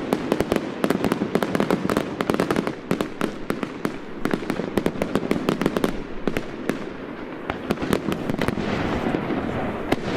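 Fireworks going off in a dense, rapid barrage of sharp bangs and crackles, many per second, thinning briefly about two-thirds of the way through before picking up again.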